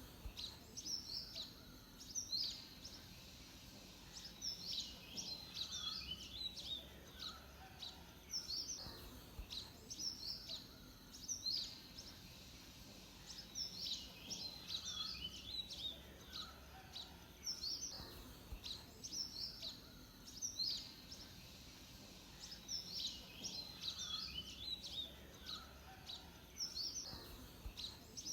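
A songbird singing in bouts of quick, high, swooping notes, each bout lasting several seconds with short pauses between, over faint steady background noise.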